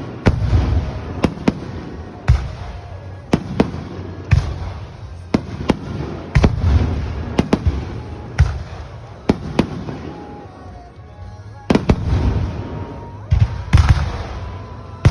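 Aerial fireworks bursting in quick succession: sharp bangs about once or twice a second, with a low rumble rolling between them and a short lull about two-thirds of the way through.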